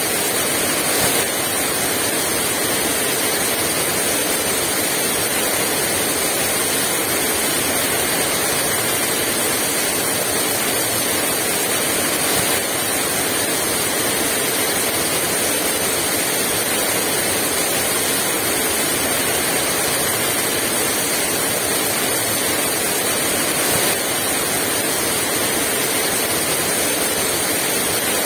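Heavy rain falling steadily in a dense, even downpour, with no wind gusts.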